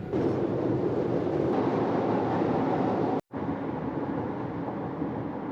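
Steady road and engine noise of a car being driven, heard from inside. A moment of silence a little over three seconds in breaks it, and then the same noise carries on.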